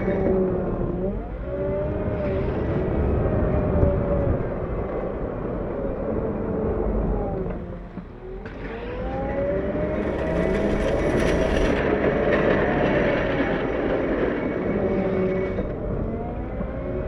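Diesel engine of a CAT 908 compact wheel loader pushing snow, its pitch rising and falling as the throttle and load change. It drops off briefly about eight seconds in, then revs back up.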